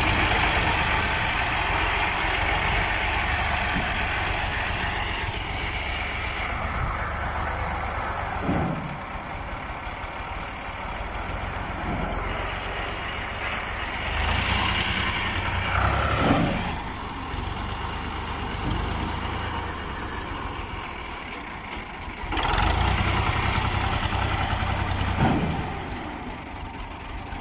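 Diesel tractor engine running, its sound swelling and easing several times.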